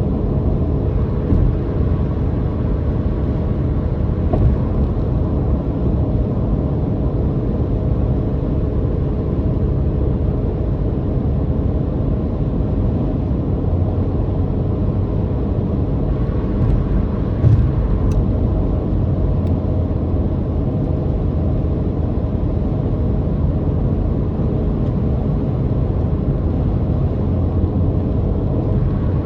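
Car being driven at a steady pace: the motor drones evenly under a continuous road rumble, with a couple of brief bumps, one a few seconds in and one past the middle.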